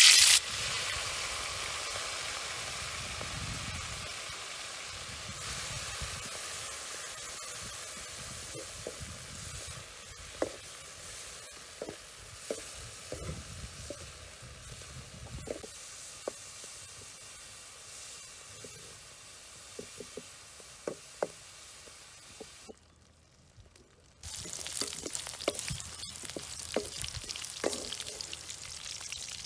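Whole crickets dropped into hot oil in a metal wok set off a loud burst of sizzling, which settles into a steady frying hiss as they cook. A metal spoon clinks and scrapes against the wok now and then as they are stirred. After a brief near-silent gap late on, louder sizzling returns with the clicks of a spoon and ladle turning them.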